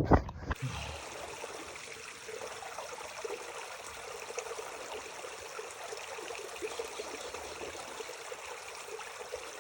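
Natural mountain spring water trickling and running steadily.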